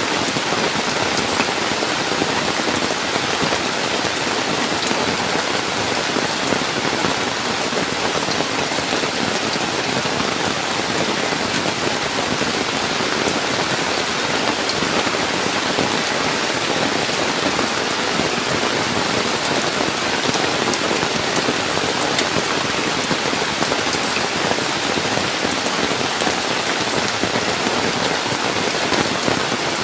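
Heavy rain falling steadily, an even downpour with many small drop impacts close by.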